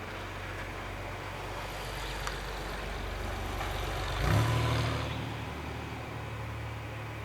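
A motor vehicle's engine, growing louder to a peak with a rush of noise about four seconds in, then running on with a steady low hum.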